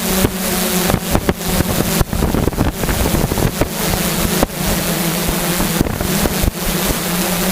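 Drone's propellers humming steadily at one pitch, with wind buffeting the microphone in repeated crackling gusts.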